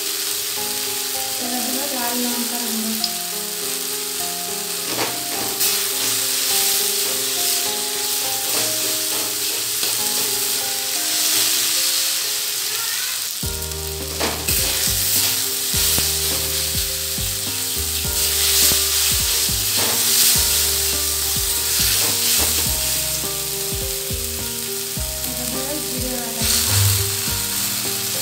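Chopped onion and tomato sizzling in oil in a steel kadai, with a metal spatula stirring and scraping against the pan now and then.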